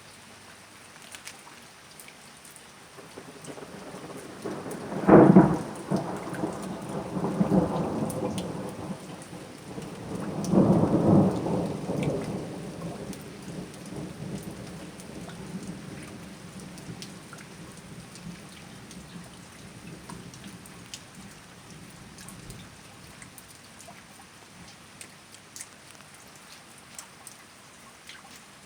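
Thunder in a night thunderstorm: a sharp crack about five seconds in, two more loud swells of rumbling, then a long roll that dies away about twenty seconds in. Steady rain falls throughout, with single drops ticking.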